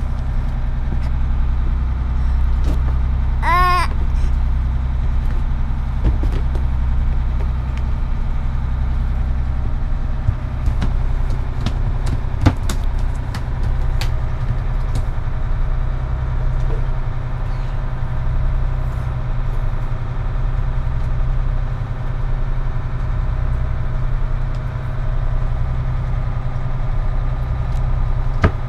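A sailboat's inboard engine running steadily with a low drone. A short rising-and-falling squeal comes about three and a half seconds in, and a few sharp clicks come near the middle.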